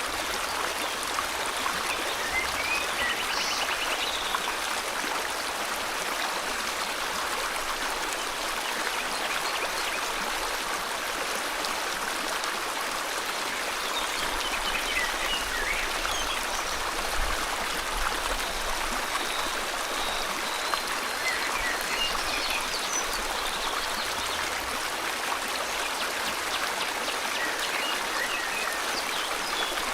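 River water flowing steadily with an even rushing sound, with faint scattered bird chirps above it.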